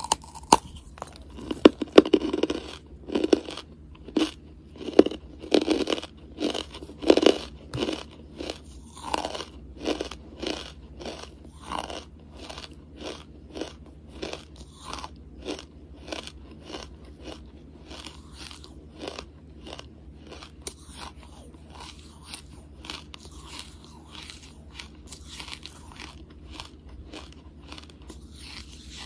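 Hard lump charcoal being bitten and chewed: a run of crisp crunches about one a second, loudest in the first dozen seconds and fainter after that.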